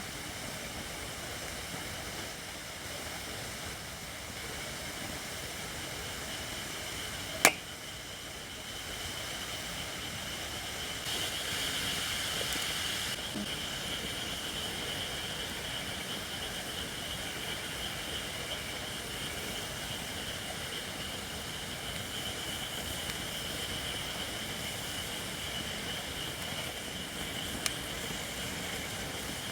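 Campfire of Japanese white oak (shirakashi) logs burning with a steady high hiss, louder from about a third of the way in: the wood is not yet dry enough. One loud crack about seven seconds in and a smaller pop near the end.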